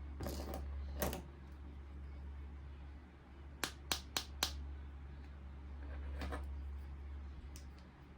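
Small plastic toy parts being handled: a couple of short scrapes, then four sharp clicks in quick succession about halfway through, and a few fainter clicks later, over a steady low hum.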